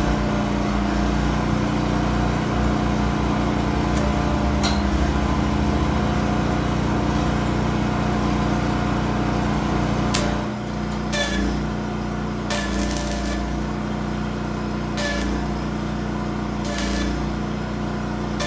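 A steady mechanical hum runs under sharp metal strikes that ring briefly: a hammer hitting steel about every second or two in the second half, with a few single strikes earlier.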